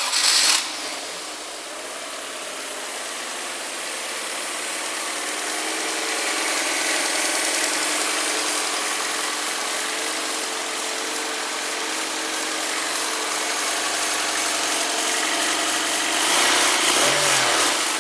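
Freshly installed replacement 1.8-litre Honda Accord engine catching on its first start with a short burst of revs, then running at a steady idle. The revs rise briefly about sixteen seconds in.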